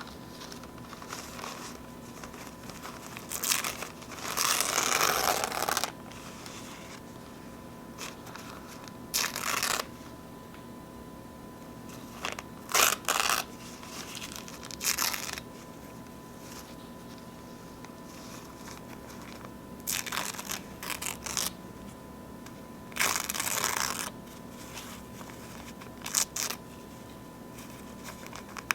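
Paper napkins being torn and crinkled by hand in short, irregular bursts with pauses between, the longest tear about four seconds in.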